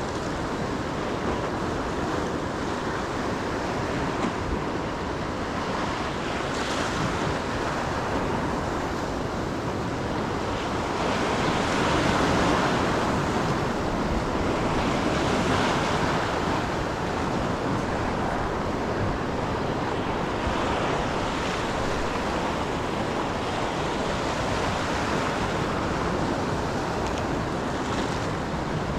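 Ocean surf breaking and washing on the shore in a steady rush, with wind on the microphone. It swells louder twice, about twelve and sixteen seconds in, as bigger waves come in.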